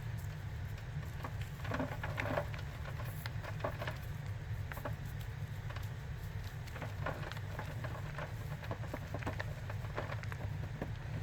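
Dry, dusty cornstarch crunchies being squeezed and crushed by hand: a run of irregular crisp crunches and crackles, over a steady low hum.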